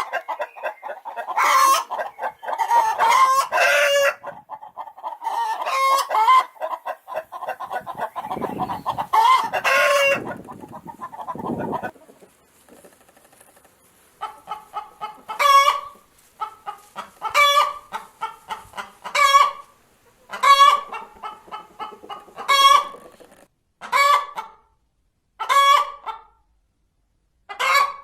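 Hens clucking and cackling, several calls overlapping at first. After a brief lull about halfway through, a hen repeats the egg-laying cackle, a run of short clucks ending in a loud squawk, about every two seconds.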